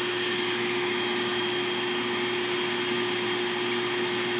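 Bee vacuum running steadily as it sucks up a honeybee swarm: a constant motor hum with an even rushing hiss.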